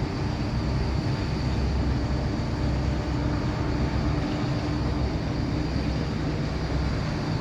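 Steady low mechanical rumble with faint constant hums over it, unchanging throughout.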